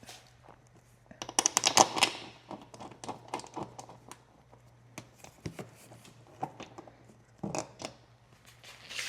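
Clicking and rattling of parts being handled and fitted during reassembly. A quick run of rapid clicks about a second in is the loudest part, followed by scattered single clicks and another short cluster near the end.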